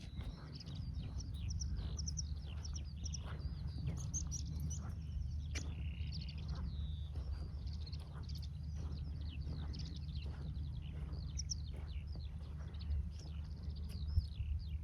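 Skylarks singing: a continuous, rapid run of high chirps and trills, over a steady low rumble.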